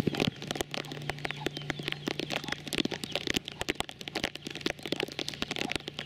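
Rain falling, with drops crackling densely and irregularly close to the microphone over a faint steady hum.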